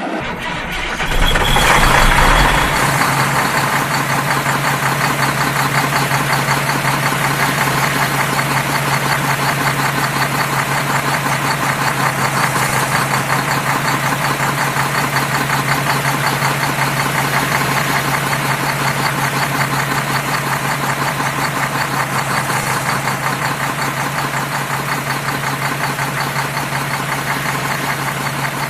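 A vehicle engine surges up about a second in, then runs steadily with a fast, even knocking pulse.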